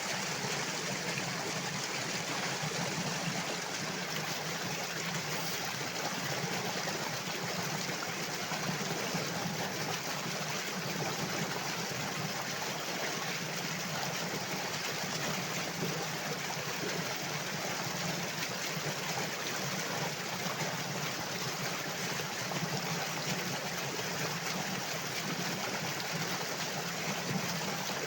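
Flowing water, a steady, even rush with no breaks or changes.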